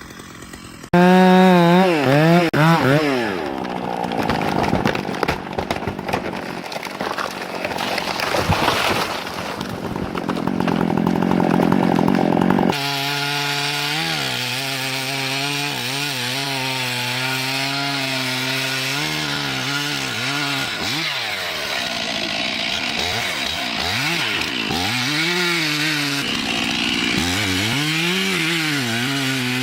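Chainsaws running and cutting into timber, the engine pitch rising and falling as the throttle is worked and the chain bogs in the wood. The sound changes abruptly about a second in and again after about 13 s; from there on it is a steadier run with repeated revs up and down.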